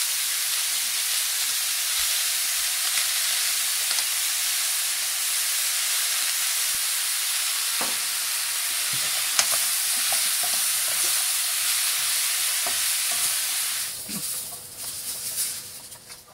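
Sliced button mushrooms sizzling in a stainless steel pan over high heat as they give off their water, with a few light clicks of a spatula against the pan. The sizzle drops away about two seconds before the end.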